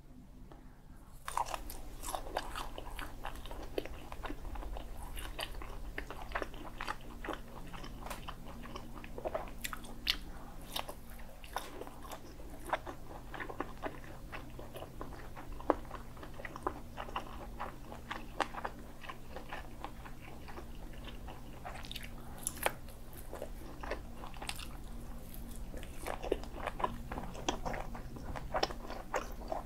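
Biting into and chewing a roasted sausage: a first bite about a second in, then steady chewing full of small clicks and crackles.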